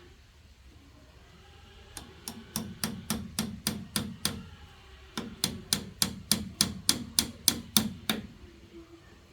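Hammering: two runs of quick, regular sharp blows, about four a second, the first of about nine strikes and the second, after a short pause, of about a dozen.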